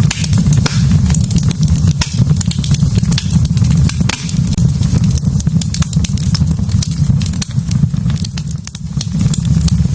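Wood fire burning in a fireplace, with frequent sharp crackles and pops over a steady low rumble.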